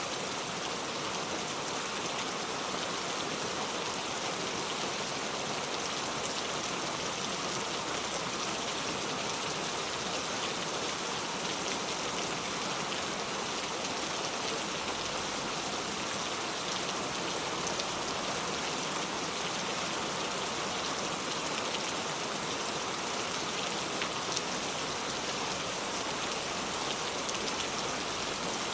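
Steady rain falling, an even hiss of drops with fine scattered patter of individual drops on surfaces.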